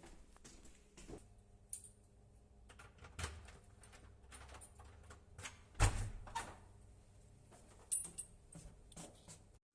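Scattered clicks and knocks of things being handled, the loudest about six seconds in, with a few brief high clinks near eight seconds over a faint steady hum.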